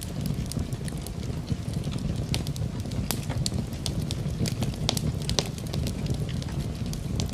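Wood fire crackling in a fireplace, mixed with rain: scattered sharp pops and snaps over a steady low rumble.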